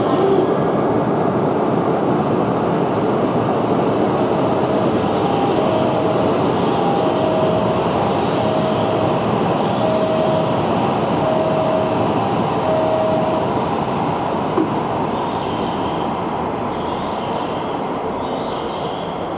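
Tohoku Shinkansen train moving along a station platform: a loud steady rushing run of wheel and air noise that slowly fades toward the end. Through the middle, a short electronic beep repeats about once a second, seven or eight times.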